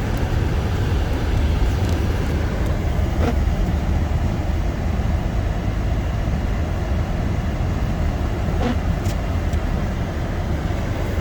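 Steady low rumble of a car driving on a snow-covered road at about 30–35 mph, tyre and road noise heard from inside the cabin, with two faint brief clicks about three seconds in and near nine seconds.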